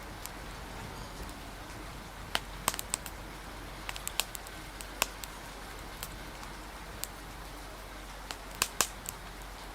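Wood fire crackling, with sharp irregular pops scattered over a steady hiss of rain.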